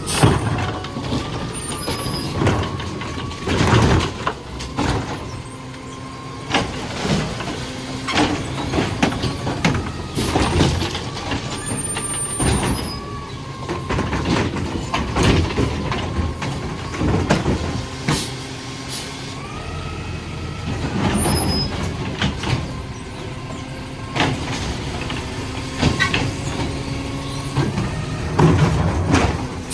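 Garbage truck working a line of recycling carts: its engine and hydraulics run under a wavering whine, with repeated bangs and clatter as carts are lifted and dumped, and the truck's air brakes hissing.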